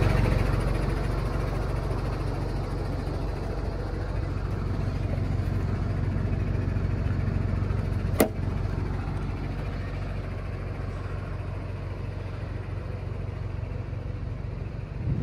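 MAN TGL 8.180 truck's four-cylinder diesel engine idling steadily, with a single sharp click about eight seconds in.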